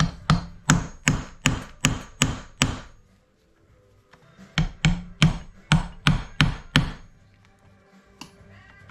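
A hammer tapping in two runs of steady blows, about two and a half a second, with a pause of over a second between the runs.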